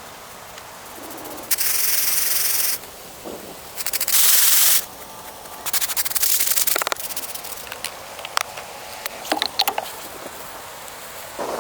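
Three long rasping rubs of about a second each, then scattered light clicks and taps.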